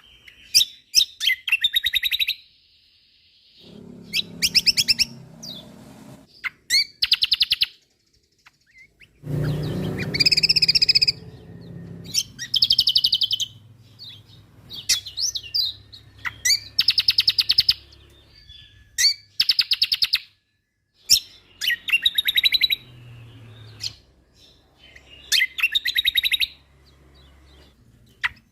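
A cucak kombo (kecial kombo) songbird singing loud, rapid trilled and chattering phrases of a second or two each, with short pauses between them. A low background rumble sits under the song twice, about four and ten seconds in.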